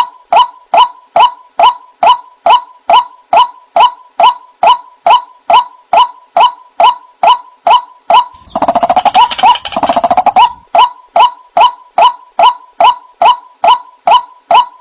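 White-breasted waterhen (ruak-ruak) calling: a loud, short note repeated about two and a half times a second, each with a falling hook. It breaks into a rapid chattering run for about two seconds near the middle, then returns to the repeated note.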